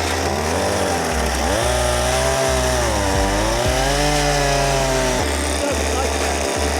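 Two-stroke chainsaw revving up and cutting into a log, its engine pitch dipping and rising under load for about four seconds, then falling back to idle near the end.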